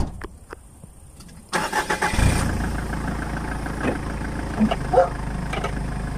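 A sharp click, then a car engine cranked by its starter, catching after well under a second and settling into a steady idle.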